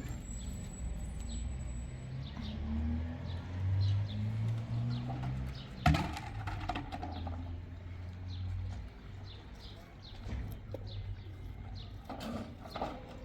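Small birds chirping over and over in short high notes, over a low steady rumble, with one sharp knock about six seconds in.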